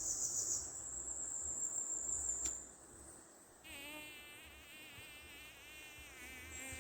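Forest insects: a high, pulsing insect call that stops about half a second in, then a thin, steady high whine lasting to about two and a half seconds. From a little past halfway, a flying insect buzzes close by, its pitch wavering.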